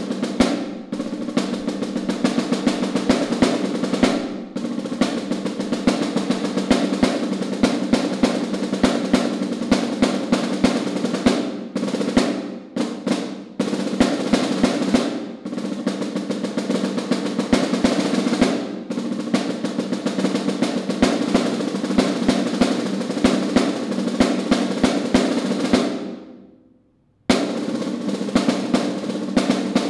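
Snare drum played solo: fast rolls and rapid accented strokes. About 26 seconds in, a roll fades away to silence, and loud playing starts again a second later.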